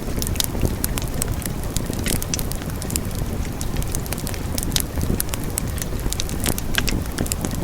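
Wood fire burning, with a steady low rumble and frequent sharp crackles and pops from the burning logs.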